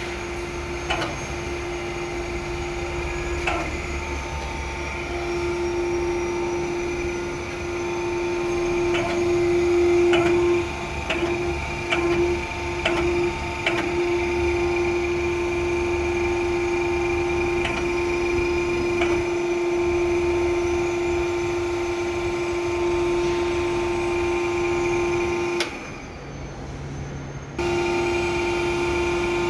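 A motor running with a steady hum and scattered clicks and knocks; the hum drops out for about two seconds near the end, then resumes.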